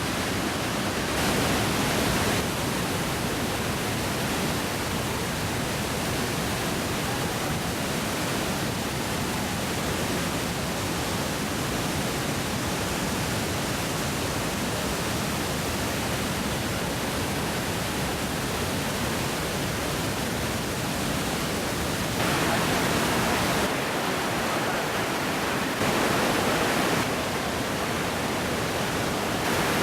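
Steady rushing of a large waterfall, Iguazu Falls, as water pours over the cliff, with a few brief louder swells.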